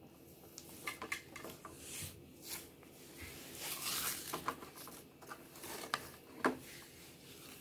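Scattered light clicks, taps and rustles from small objects being handled, busier around the middle.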